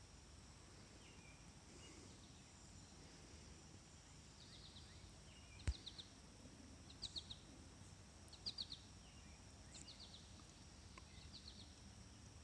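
Faint bird calls in near quiet: a small bird repeating a short, quick group of three or four high chirps about every second and a half, with a single sharp click about halfway through.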